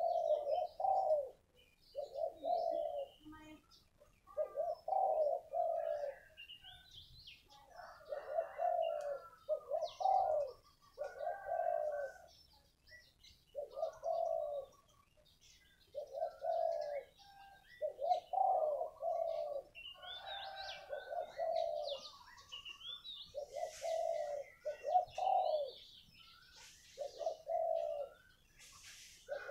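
Spotted dove cooing: a long run of short cooing phrases about a second each, coming roughly every two seconds. Small birds chirp faintly in the background.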